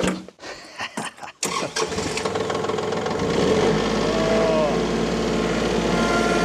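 A few clicks and knocks, then a tractor's engine starts about a second and a half in and settles into a steady idle.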